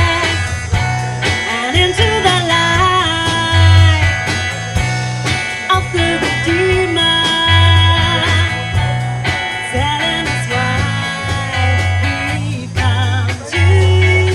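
Live band music: a melodic lead line with slides and wavering held notes over a strong bass line and steady drums.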